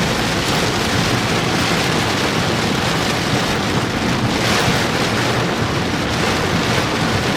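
Steady heavy rain hitting a vehicle's roof and windshield, with wind and vehicle noise, heard from inside the cab.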